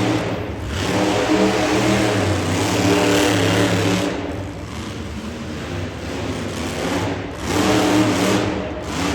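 Monster truck engine revving hard, easing off about four seconds in, then revving up again near the end.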